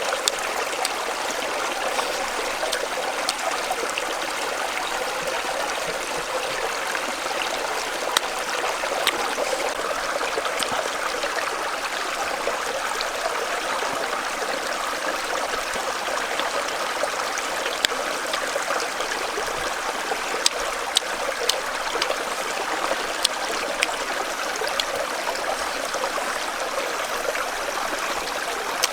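Steady rushing and trickling of a small stream's running water, with a few sharp clicks scattered through it.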